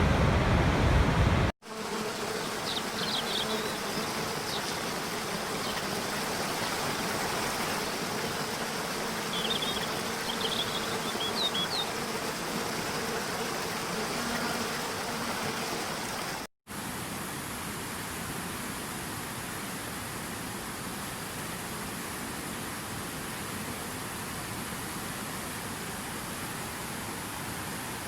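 Steady rushing water of a waterfall, in three stretches that change abruptly about a second and a half in and about two-thirds of the way through. A bird chirps briefly a few times in the middle stretch.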